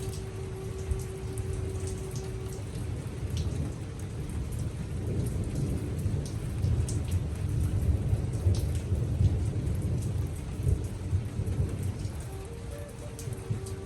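Thunderstorm: heavy rain falling with scattered sharp drop clicks, and a long low roll of thunder that builds through the middle and eases off near the end.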